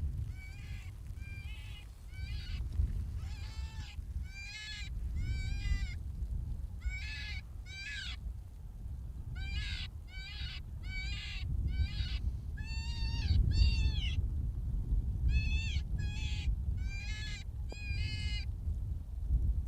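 Predator call sounding a string of short, high, pitched distress cries, repeated about one to two times a second in uneven series, used to lure coyotes. A steady low wind rumble on the microphone runs underneath.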